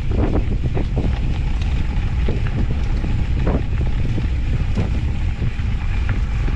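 Wind buffeting the microphone during a fast ride on a dirt mountain-bike trail, a steady low rumble, with scattered knocks and rattles from an off-road handcycle going over rough ground.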